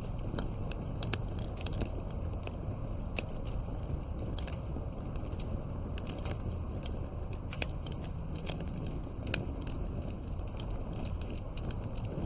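Campfire burning, with irregular sharp crackles and pops of the burning wood over a steady low rush.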